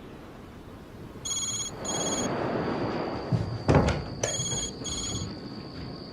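A phone ringing: two pairs of short, high-pitched rings, the second pair about three seconds after the first. A loud thump falls between the two pairs.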